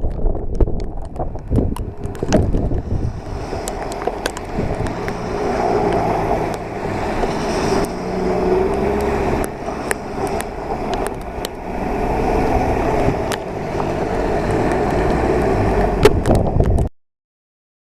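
Strong storm wind buffeting the microphone in a snowstorm, a heavy rumble with sharp knocks. From about four seconds in a steady hum runs beneath it, and the sound cuts off abruptly near the end.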